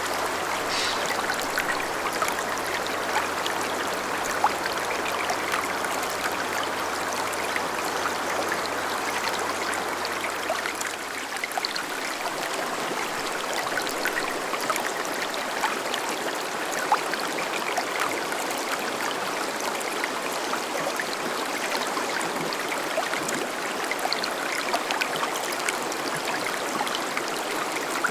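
Azusa River, a clear mountain river, flowing over stones with a steady rushing babble. The sound is flecked with small splashes and gurgles.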